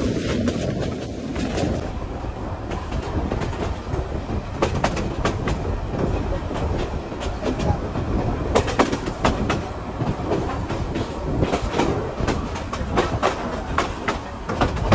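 Passenger train running on the track: a steady rumble with irregular clickety-clack of the wheels over rail joints.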